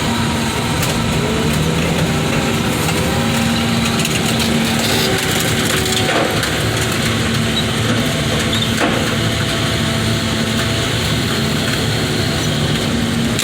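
Heavy diesel machine engine running steadily under work, with a few sharp knocks and crunches of scrap car metal being crushed.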